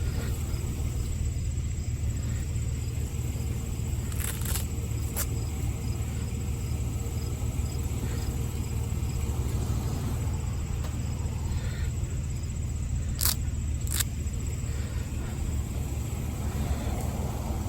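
A vehicle engine running with a steady low rumble. There are a few sharp clicks, two together about four seconds in and two more near the end.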